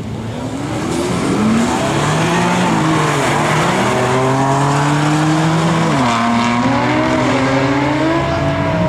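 BMW i8 and BMW M4 launching side by side from a standing start and accelerating hard. Their engines climb in pitch together, with an upshift drop about six seconds in before the revs rise again.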